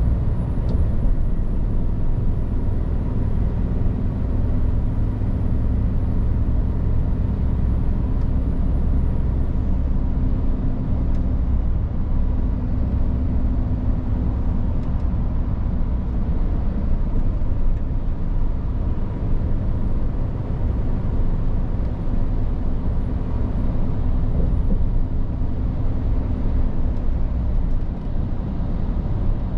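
Scania R450 truck's diesel engine and road noise while driving: a steady low rumble.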